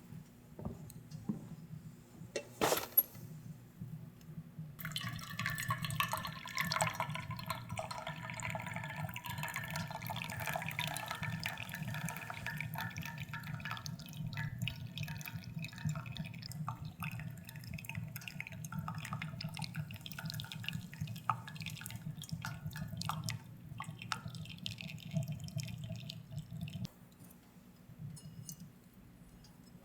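Water running or being poured into a container for about twenty seconds, after a single sharp click near the start, over a steady low hum that stops near the end.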